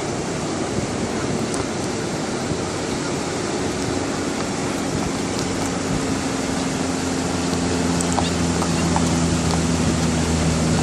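Ocean surf and wind noise on the beach. From about four seconds in, a vehicle engine's steady hum comes in and grows louder toward the end.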